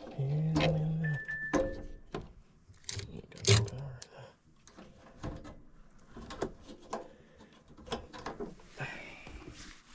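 Scattered clicks, taps and rattles of tools and metal furnace parts being handled while getting at the furnace's capacitor. There is a low hum for about a second near the start and a brief steady high tone about a second in.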